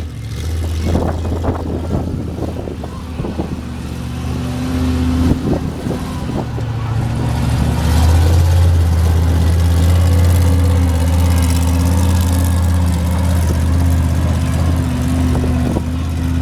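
A large vehicle engine running steadily, with a few knocks in the first several seconds; the engine grows louder about eight seconds in.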